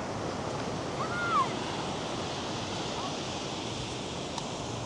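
North Sea surf breaking and washing up a sandy beach: a steady rush of noise. About a second in, a short, high call rises and falls once.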